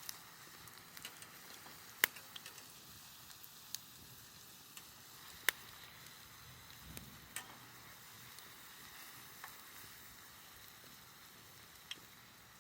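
Steady sizzling hiss of food cooking over a wood campfire, broken by a few sharp, isolated pops, the strongest about two seconds in and again about five and a half seconds in.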